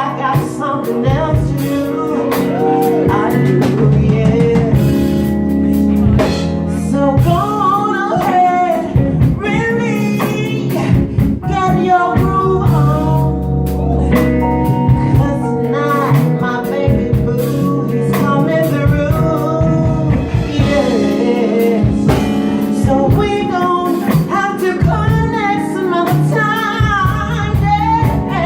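Live R&B band with a female lead vocalist singing over electric guitar, bass and drum kit.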